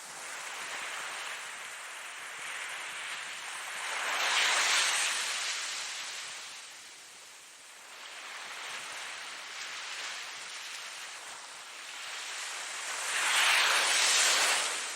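Ocean waves breaking and washing in, a hiss of surf that swells and fades slowly, with the two biggest surges about four seconds in and near the end.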